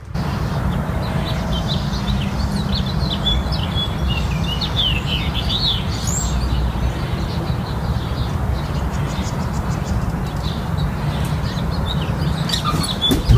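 Small birds chirping in quick, squiggly calls for the first half, over a steady low rumble, with a few sharp clicks near the end.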